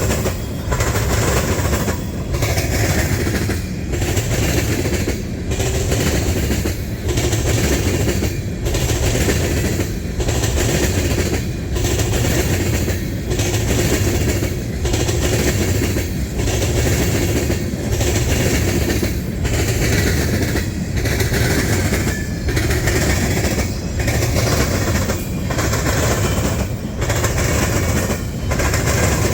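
Freight cars of a Canadian National train rolling over a diamond crossing, the wheels clattering steadily, with a short dip about every one and a half seconds as each car passes.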